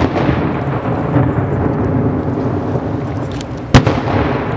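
Aerial firework shells bursting: one sharp bang a little before four seconds in, over a continuous low rumble of booms.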